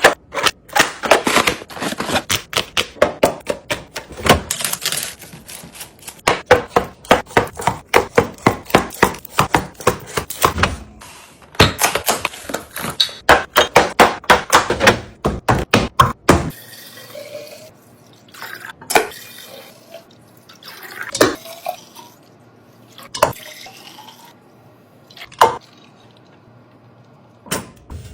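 Containers and drinks being set onto fridge shelves, with rapid clicks, clacks and knocks of hard plastic and glass. After about sixteen seconds the knocks thin out to single ones about every two seconds.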